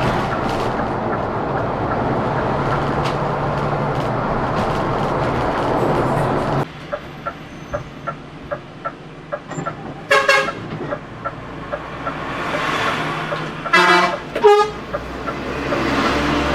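Steady road and engine noise of a moving coach that drops away abruptly about six and a half seconds in. A quieter bed with light regular ticking follows, broken by short vehicle horn honks about ten seconds in and twice more around fourteen seconds.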